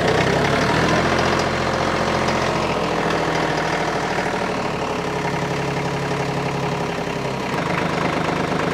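TYM compact tractor's diesel engine running steadily, its note shifting a little near the end.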